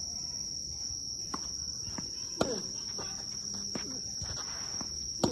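Tennis ball hit back and forth with rackets in a doubles rally: a series of sharp pops a second or so apart, the loudest about two and a half seconds in and near the end. A steady high insect drone runs underneath.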